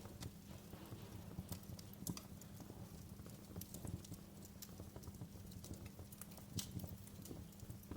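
Wood fire crackling in a fireplace: irregular sharp pops and snaps over a steady low background noise.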